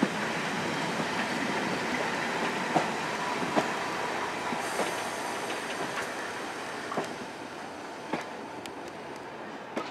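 Passenger train running on jointed track, heard from an open coach window: a steady rumble of wheels and air, with sharp clicks as the wheels cross rail joints. The rumble grows quieter over the second half.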